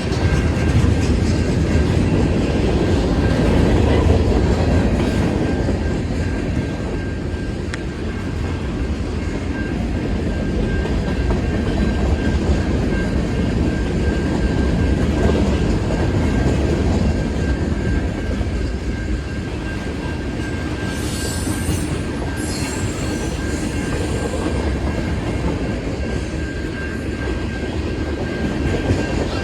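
CN freight train's cars rolling past over the crossing: a steady heavy rumble with wheels clacking over rail joints, and a short high-pitched wheel squeal about two-thirds of the way through.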